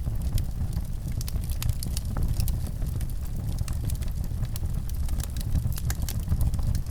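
Wood fire burning in a fireplace: frequent small irregular crackles and pops over a steady low rumble of the flames.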